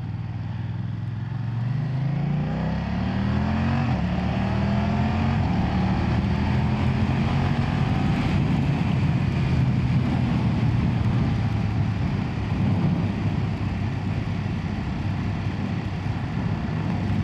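Onboard sound of a BMW F900R's 895cc parallel-twin engine pulling with rising pitch, dropping at an upshift about four seconds in, then pulling again and settling into a steady cruise.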